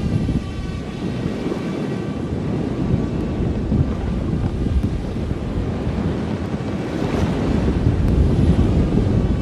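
Strong wind buffeting the microphone over rushing water and waves as a racing sailboat drives through the sea at speed.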